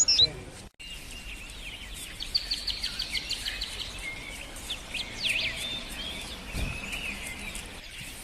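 Small birds singing and chirping over steady outdoor background noise, with a fast trill of repeated notes about two seconds in and a cluster of chirps and whistles around five seconds. The sound cuts out completely for a moment just before one second in.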